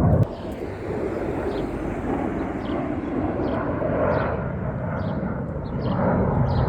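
Airplane engine noise heard from the ground: a loud low rumble drops away sharply just after the start, leaving a steady drone. Short high chirps repeat over it every half second or so.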